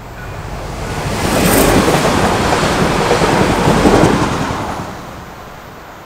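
Impuls 31WE electric multiple unit passing over the level crossing at speed: a rush of wheel-on-rail and air noise that builds over the first second and a half, stays loud for about three seconds, then fades as the train clears.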